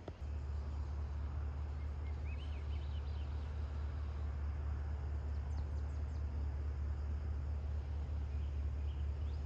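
A steady low rumble starts just after a click, with a few faint high bird chirps about two, five and nine seconds in.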